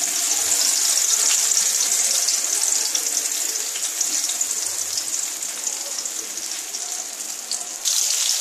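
Watery turmeric, ginger, cumin and chilli paste sizzling in hot mustard oil and ghee in a kadai, a steady hiss that slowly dies down. It flares up again just before the end as the spatula spreads the paste.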